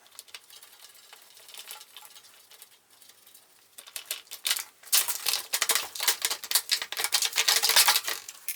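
Light metallic clicking and clattering of small parts and hand tools on the compressor being dismantled, sparse at first and becoming dense and busy from about five seconds in.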